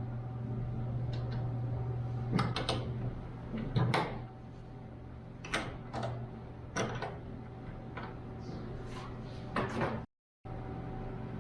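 Light wooden knocks and clicks, about eight in all and the loudest early on, as the doors and drawer of a small solid-pine chest are opened and shut. A steady low hum runs underneath, and the sound cuts out briefly near the end.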